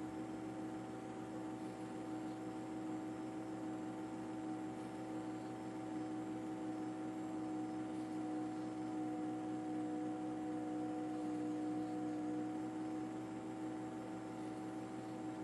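Steady mechanical drone with a hum at a few fixed pitches that drift slightly, like an engine running at constant speed.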